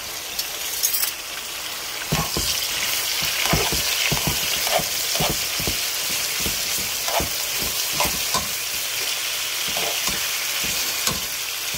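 Diced chicken breast sizzling in hot oil in a pot, a steady frying hiss. From about two seconds in, a spatula scrapes and knocks against the pan again and again as the pieces are stirred.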